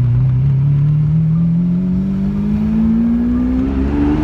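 Lamborghini Aventador SV Roadster's V12 accelerating hard, its note rising steadily in pitch through one gear, heard from the open cockpit with the roof off.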